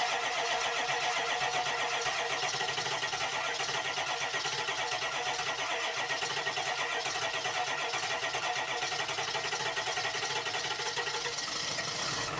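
Diesel engine cranking steadily on its starter in the cold without firing, glow plugs cycled twice beforehand: a long, even churning that never picks up into a run.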